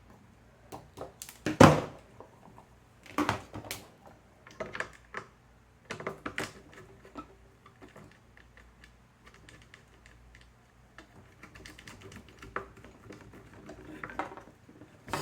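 Irregular clicks, taps and light rattling of hand work on an electrical wiring board as a loose wire is reconnected to its terminal. The sharpest click comes about a second and a half in, with lighter ticking through the second half.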